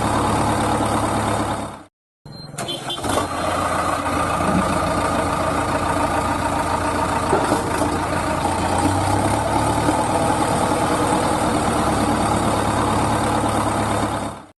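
Small engine of a home-built mini tractor running steadily, broken by a brief gap about two seconds in.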